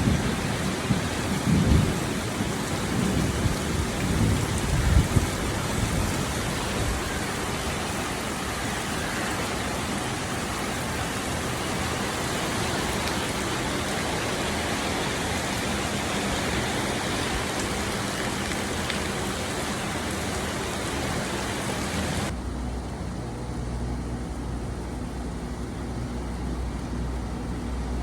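Heavy tropical rain pouring down in a steady dense hiss, with low rumbles in the first few seconds. Near the end the rain cuts off abruptly, giving way to a quieter low steady hum.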